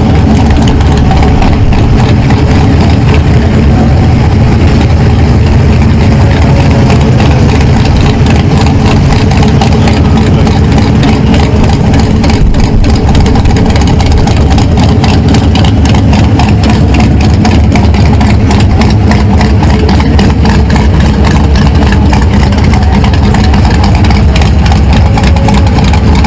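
A car engine idling steadily, loud and close, with an even rumble that does not rise or fall.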